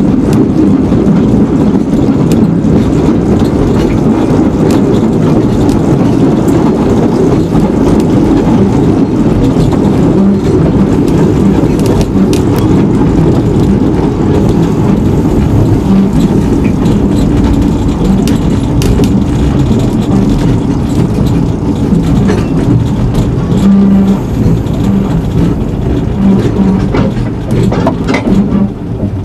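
A narrow-gauge railway train running: a steady, loud rumble with scattered short clicks and clatter.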